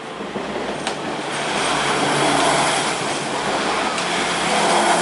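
Passenger train passing over a level crossing: the noise of wheels on the track swells after about a second and a half and stays loud as the coaches go by.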